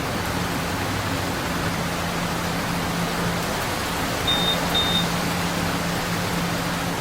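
Steady hiss and low hum of subway station and train noise, with two short, high beeps of the same pitch about four seconds in.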